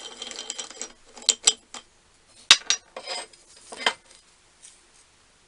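Small metal parts clinking as they are handled on a workbench: a faint rustle, then a scatter of light clicks and taps, the sharpest about two and a half seconds in.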